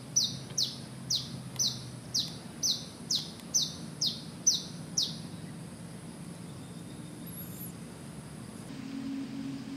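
A bird calling a regular series of short, high, falling whistled notes, about two a second, around ten in all, stopping about five seconds in.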